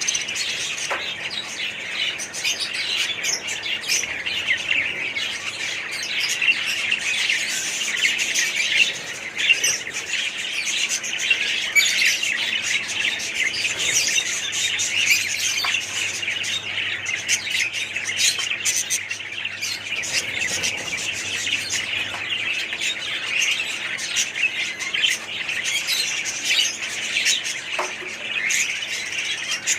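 A flock of small pet parrots chattering, chirping and squawking together without a break, many birds calling over one another.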